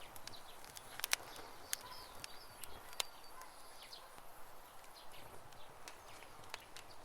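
Campfire crackling, with scattered sharp pops that are loudest about one and three seconds in, while birds chirp briefly in the background.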